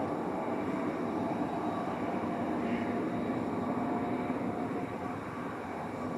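Jet airliner's engines at takeoff power, a steady, even rush of noise with faint held whining tones.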